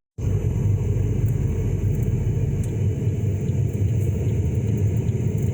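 Car driving, its steady low road and engine rumble heard inside the cabin.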